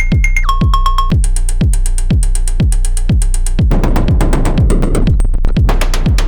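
Eurorack modular synthesizer patch built around the Paratek SATURN square-wave noise generator: a steady electronic kick thumps about two and a half times a second under a low hum. High square-wave blips step down in pitch about half a second in and break into rapid clicking, then a hissy mixed-noise texture comes in about four seconds in.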